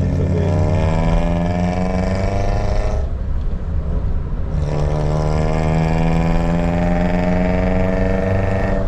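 Car engine heard from inside the cabin, accelerating with its pitch rising. About three seconds in, it eases off for a moment, then pulls and rises in pitch again.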